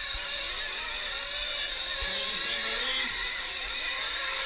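Nitro RC truck engines buzzing at high revs as the trucks race around the track, a steady high-pitched whine with pitch wavering as they throttle on and off.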